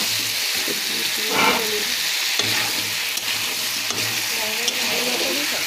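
Cubed potatoes with capsicum, tomato and onion sizzling in hot oil and spice paste in a kadai while a spatula stirs them, with scattered clicks of the spatula and one louder stroke about a second and a half in. This is the kosha stage, the potatoes being sautéed dry in the masala.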